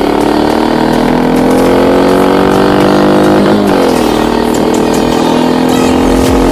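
Honda CB350 motorcycle engine pulling under acceleration, its pitch rising steadily, then dropping sharply about three and a half seconds in at a gear change before climbing again.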